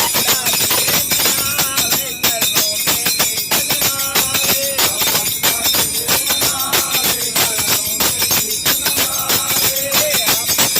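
Music: voices singing a wavering melody over fast, steady jingling hand percussion.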